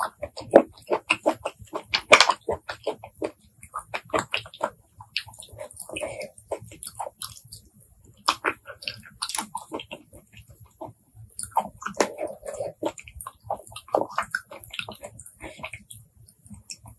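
Close-miked, wet chewing of shellfish meat (apple snail and blood cockle), with many irregular sharp clicks and smacks from the mouth.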